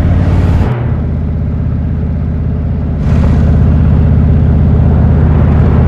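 Indian motorcycle's V-twin engine running under way, a steady low note. It eases off a little under a second in, then pulls louder again from about three seconds in.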